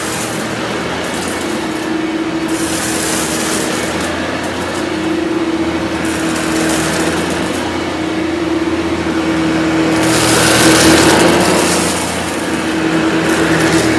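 Vorwerk VK 121 upright vacuum with ET340 powerhead running, a steady motor hum under a rushing hiss of air. The hiss swells louder in stretches, most strongly about ten to twelve seconds in.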